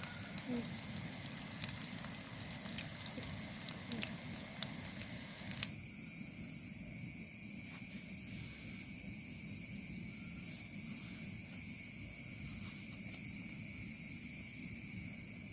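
Risoles frying in hot oil, a sizzle with many sharp crackles. About six seconds in it changes abruptly to a steady high chirring of night insects, pulsing about once or twice a second.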